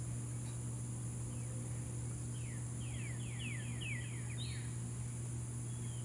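A bird sings a quick run of short, descending notes for about two seconds in the middle, over a steady high insect drone and a steady low hum.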